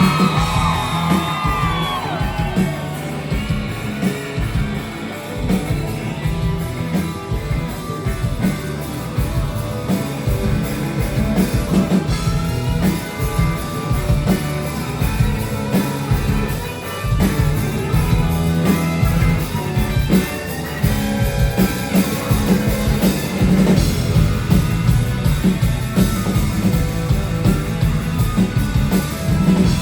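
Live rock band playing at full volume: electric guitars, bass and drum kit in a dense, driving mix.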